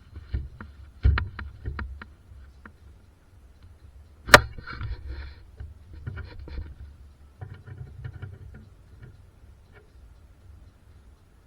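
Workshop knocks and clicks from hand work on car parts: a quick run of knocks, then one sharp loud strike a little over four seconds in followed by rattling, and scattered lighter clicks.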